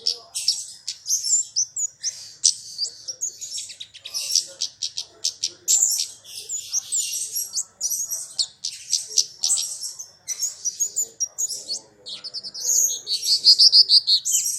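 Kemade bird song played as a lure call: rapid, high-pitched chirps and twittering with no pauses, ending in a quick trill of repeated notes.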